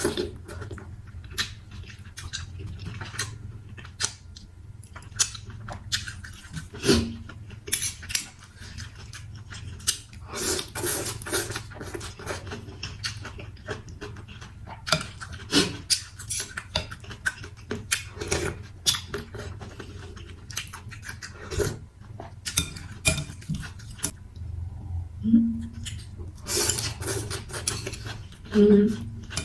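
Close-up eating sounds from a bowl of noodle soup: utensils clicking and clinking against the bowl again and again, with chewing and a few longer slurping sounds.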